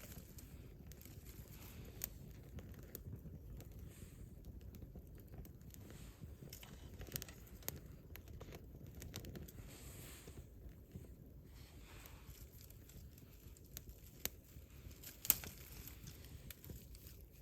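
Wood campfire crackling: scattered sharp pops and snaps over a low, steady rumble, with the loudest pop near the end.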